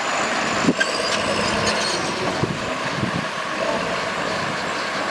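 Earthmoving machinery working soil: a steady noise with a few short knocks about a second in and again around two and a half to three seconds in.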